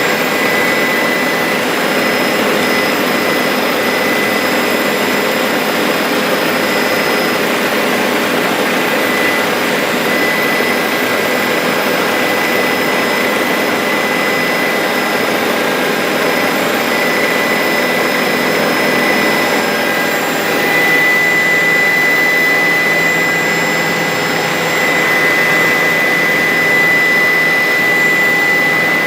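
Bell 407 helicopter in flight: the steady, loud noise of its turboshaft engine and rotors, with a steady high whine running through it.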